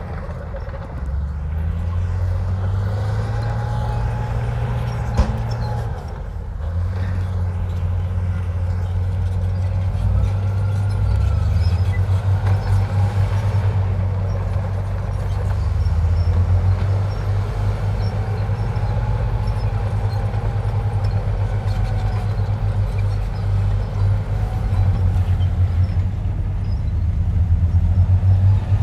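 Heavy diesel earthmoving machinery running under changing load, its low engine note stepping up and down. A faint whine swells and fades several times, and there is a single sharp knock about five seconds in.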